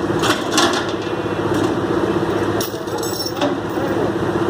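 Heavy truck diesel engine running steadily, with a few sharp metallic clanks and knocks from the recovery rigging, the clearest near the start and around the middle.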